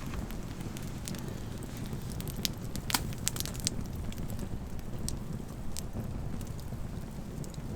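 Wood fire crackling: scattered sharp pops, most of them in a cluster in the middle, over a steady low rumble.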